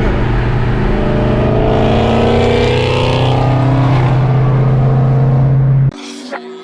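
Dodge Hemi V8 engine running loudly and steadily, with a whine that rises and falls over it in the middle. The engine sound cuts off abruptly about six seconds in.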